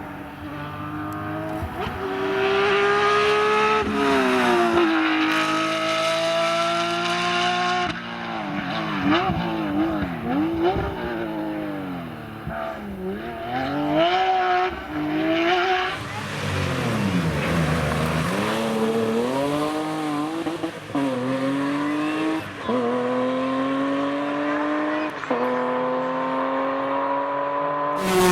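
Porsche rally car's flat-six engine at full throttle, its pitch climbing through the gears with sharp drops at each upshift. In the middle it revs rapidly up and down through braking and downshifts, then pulls hard up through the gears again.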